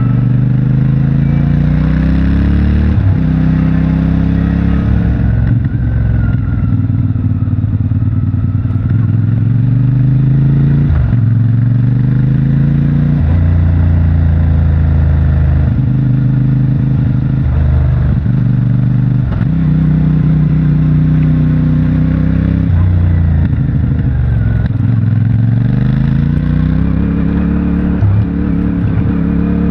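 CFMOTO 450MT's parallel-twin engine through its stock exhaust, ridden on the road: the engine note climbs under throttle, breaks off briefly and drops again, over and over, as the rider works through the gears and rolls off.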